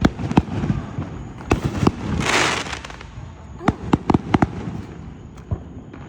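Fireworks going off: an irregular series of sharp bangs and cracks, several in quick succession about four seconds in, with a brief hissing rush about two seconds in.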